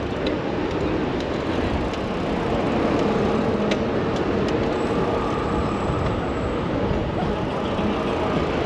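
Steady city traffic noise heard from a moving bicycle. About five seconds in, a faint steady hum from a nearby vehicle joins it.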